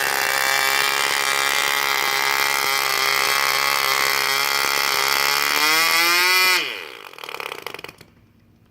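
Veco 19 ball-bearing two-stroke glow engine running steadily with a propeller at high speed. About five and a half seconds in its pitch rises, then about a second later it cuts out and winds down with a few sputters.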